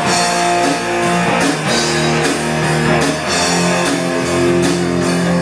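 Live rock band playing an instrumental passage between sung lines: electric guitars carry a melodic line over a steady drum kit beat.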